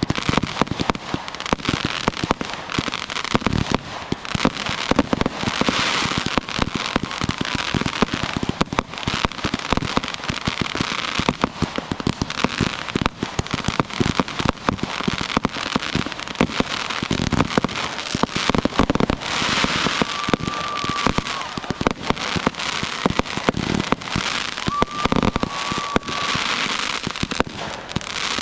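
Fireworks going off in a dense, continuous barrage of cracks, bangs and crackling. Two short high tones come through near the end, one about two-thirds of the way in and another a few seconds later.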